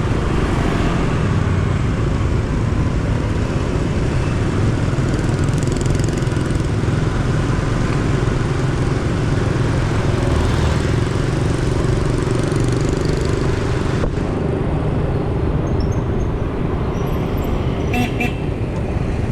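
Motorcycle riding through city traffic: its engine runs steadily under heavy wind noise on the helmet-mounted microphone. A few short high beeps sound near the end.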